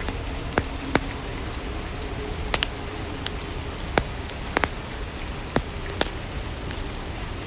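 Steady soft rainfall with single drops landing close by at irregular intervals, roughly one a second.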